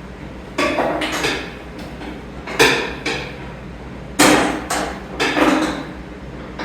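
Metal tools knocking and clanking against metal, a series of sharp clanks with short ringing, the loudest about a third and two thirds of the way through.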